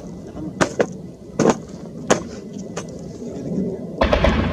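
Scattered single gunshots cracking out every half second or so, then a burst of rapid automatic gunfire starting about four seconds in.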